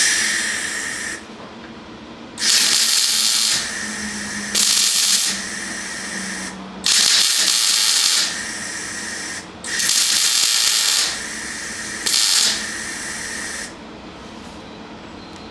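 Welder spot-welding thin tin shock absorber dust covers onto a steel chassis: about six hissing, crackling bursts of one to two seconds each, with a quieter steady hiss between them.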